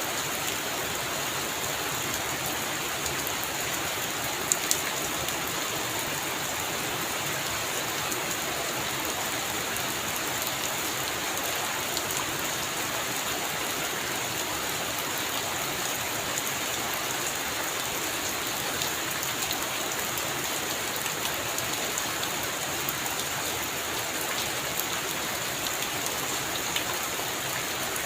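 Heavy rain falling steadily on a roof, a dense even hiss dotted with sharp drop hits. One louder hit stands out about four and a half seconds in.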